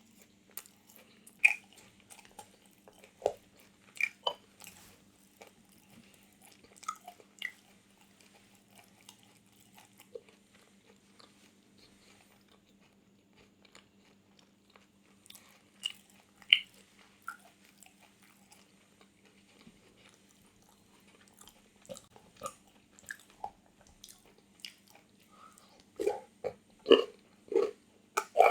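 Close-miked eating sounds: scattered bites and crunches with pauses between them, then a quicker run of louder chewing and mouth smacks near the end. A faint steady low hum lies underneath.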